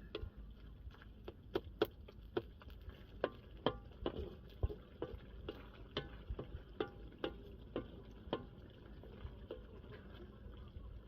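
Irregular light clicks and clinks, about two or three a second, some with a short metallic ring, over a faint steady background noise.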